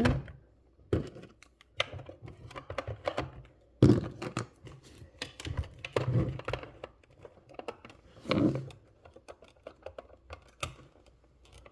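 Small plastic pieces of a miniature toy refrigerator being handled and fitted together: irregular light clicks and taps, with a louder knock about four seconds in.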